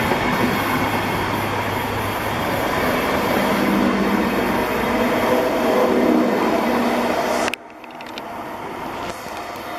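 DB Class 218 diesel-hydraulic locomotive's V12 engine and turbocharger running hard under load as the train pulls away, with a loud whine that climbs in pitch. About three quarters of the way through the sound drops away suddenly to a much quieter rumble.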